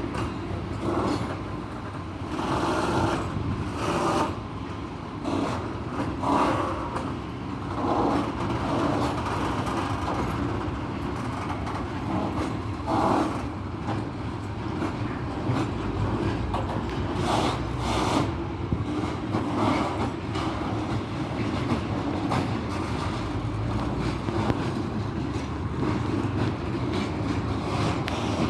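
Freight train pulling away, its wagons rolling by in a steady rumble with repeated wheel clacks.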